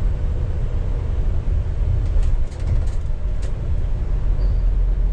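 Tour coach driving on the road, heard from inside the cabin: a steady low engine and road rumble, with a few light rattles or clicks about two to three and a half seconds in.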